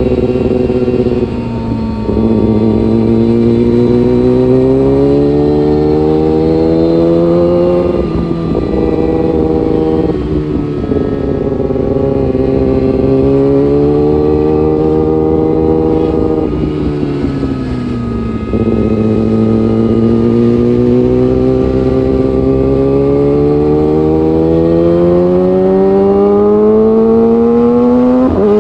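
Honda CBR600RR sportbike's inline-four engine under way, its pitch climbing in long, steady pulls. The pitch breaks and drops a few times where the rider shifts gear or eases off, then rises again.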